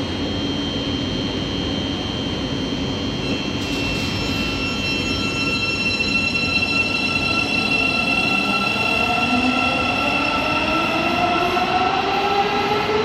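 Thameslink Class 700 electric multiple unit pulling out, its traction motors whining. Several tones rise steadily in pitch through the second half as the train gathers speed.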